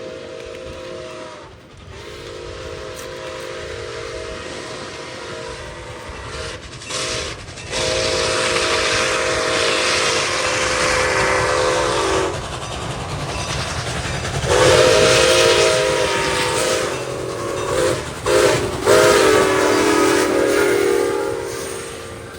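Diesel locomotive's multi-chime air horn blowing a series of long blasts broken by short ones, over the loud rumble of the passing train's engine and wheels; the horn chord drops in pitch near the end as the locomotive goes by.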